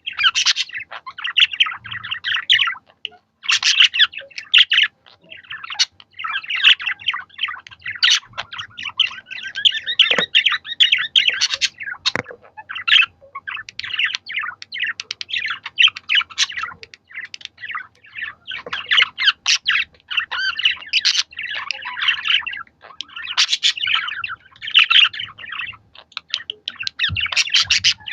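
Budgerigars chattering and warbling: fast, busy chirps and twittering calls with only brief pauses.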